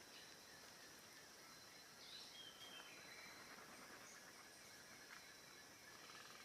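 Faint forest ambience: a steady high insect drone with a few short bird chirps about two seconds in.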